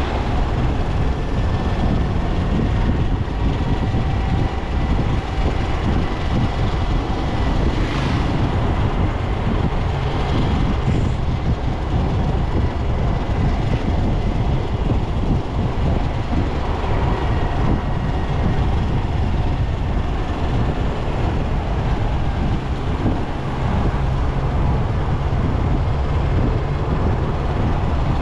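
Motorcycle riding along a road: the engine runs steadily under a constant rumble of road and wind noise.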